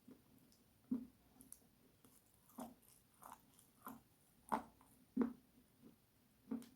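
Close-miked crunchy bites and chewing: about ten separate crisp crunches, roughly one every half second or so, the loudest a little past the middle.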